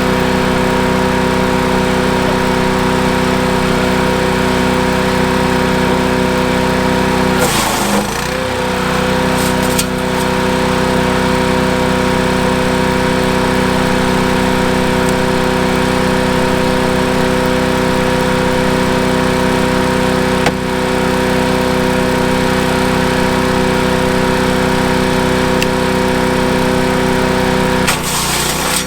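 Landworks wood chipper's 212cc single-cylinder gas engine running steadily at high throttle. About eight seconds in, and again near the end, its pitch briefly drops with a burst of crackling noise, as when a branch is fed in and the engine takes the load of chipping it.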